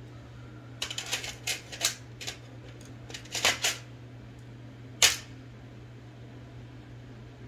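Sharp metallic clicks and clacks from an Olivetti Linea 98 typewriter's mechanism being worked by hand. A quick run of clicks comes about a second in, another short cluster about three and a half seconds in, and a single loud click at about five seconds.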